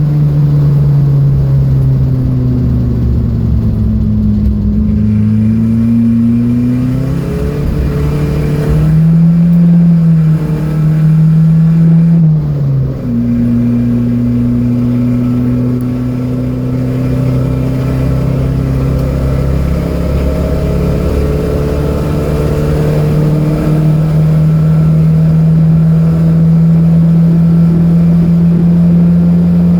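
Datsun B210's four-cylinder engine under load on a race track: the revs drop, then climb again, with gear changes about a third of the way in, and then hold fairly steady while pulling slowly higher.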